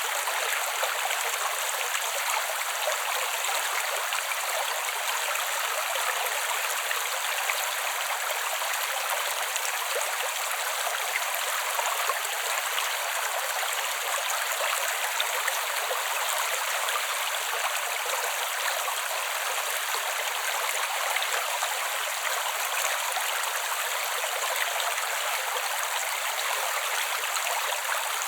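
Small creek flowing over rocks, a steady babble and trickle with no bass, even throughout.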